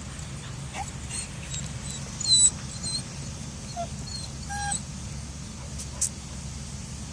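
Small dog whimpering in a few short, high-pitched squeaky whines, loudest about two and a half seconds in, over a steady low hum. A sharp click near the six-second mark.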